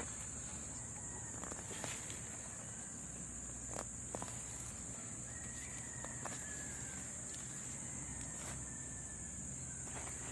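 Steady high-pitched insect drone with scattered light clicks and snaps. A faint drawn-out call sounds about five seconds in and lasts about two seconds.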